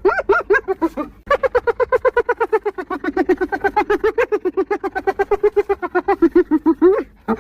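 Spotted hyena giggling: fast runs of short, pitched notes, about nine a second, in bouts. A bout breaks off about a second in, a long bout follows, and a new one starts near the end.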